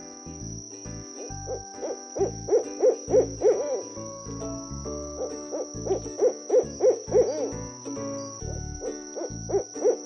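An owl hooting in three quick runs of short hoots, about three a second, over light background music.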